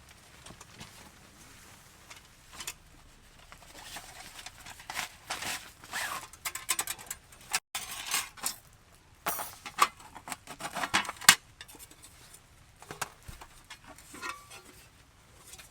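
Irregular rustling and sharp clinks and knocks of objects being handled, busiest in the middle stretch, over a faint steady background.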